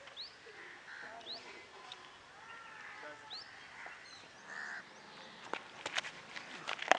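Birds calling: short rising chirps and some lower, harsher calls, spaced out over several seconds. In the last second and a half comes a quick run of sharp knocks, the loudest right at the end.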